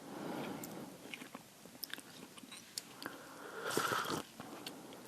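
Close-miked chewing of instant noodles, with wet mouth clicks and smacks. A louder, noisier stretch comes a little under four seconds in.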